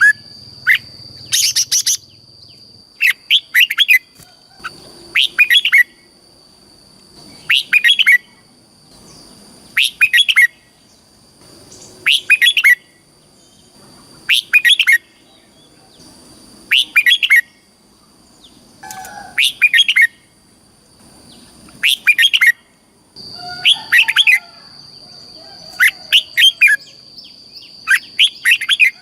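Red-whiskered bulbul singing, repeating its short chirping song phrase about once every two seconds. A steady high-pitched tone runs behind the song.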